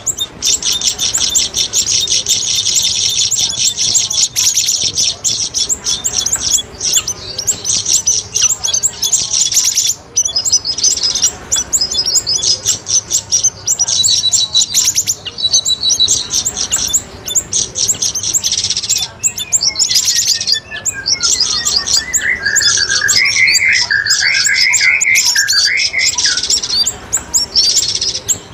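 Lure recording of cucak rawis and siri-siri birds calling: dense, rapid high chirps and trills, with a falling run of notes about twenty seconds in, followed by a lower, warbling song.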